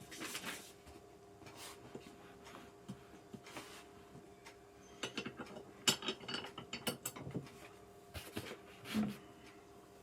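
Small metal clicks and rattles of screws and a hand tool being handled and turned while putting together a gaming chair, busiest about halfway through. A faint steady hum sits underneath.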